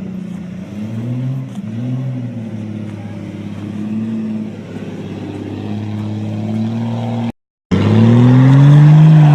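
Truck engine running and revving up and down several times. It cuts out abruptly for a moment about seven seconds in, then comes back louder and steadier.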